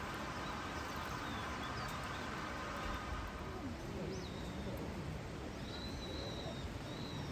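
Steady hiss of rain, with faint bird chirps in the second half.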